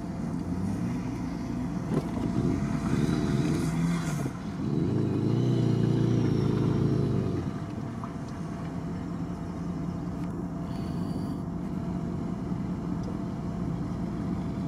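A car engine running, revving up strongly for a few seconds about midway with its pitch swelling and then falling, before settling back to a steadier, lower drone.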